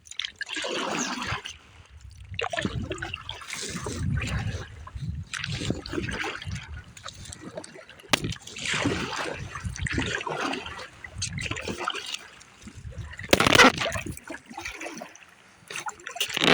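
Kayak paddle strokes from an inflatable tandem kayak: the blades dip and pull through river water in uneven strokes about every second or two, splashing and dripping, with one louder burst near the end.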